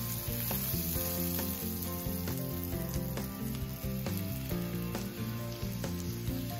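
Ghee sizzling and crackling in a hot grill pan as stuffed bell pepper rings are set down in it. Background music with a stepping bass line plays along.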